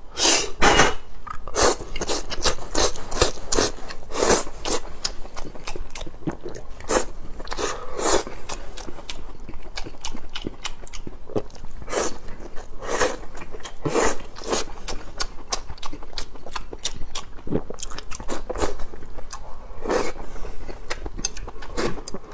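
Close-miked eating: a person biting and chewing braised long beans and green peppers with rice, a run of irregular bites and wet mouth sounds.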